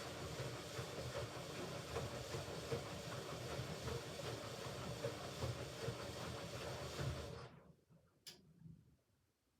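Hoover Ecologic Computer Washer 1300 washing machine running during its rinse and spin programme, a steady mechanical running with a hiss, which cuts out about seven and a half seconds in. A single sharp click follows just after it stops.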